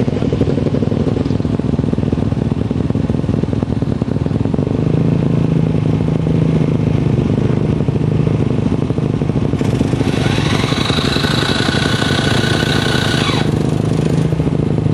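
Single-cylinder Supermono race motorcycle engine running steadily while being warmed up, its oil still cold. About ten seconds in a higher-pitched whine joins it, slides down in pitch and stops about three seconds later.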